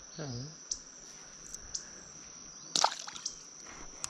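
Small water splashes and sloshing from wading and handling a fish in a shallow creek, with a sharper splash or knock nearly three seconds in. A steady high insect trill, typical of crickets, runs underneath, and a brief low vocal sound comes near the start.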